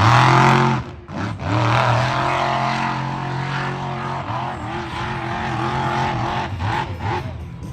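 Vehicle engine running loud and revving, with a short drop about a second in, then a long steady run.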